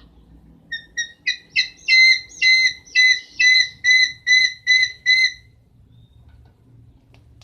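An owl calling: a run of about a dozen short, clear whistled notes, about two to three a second. The notes grow louder at first, then hold steady, and stop about five and a half seconds in.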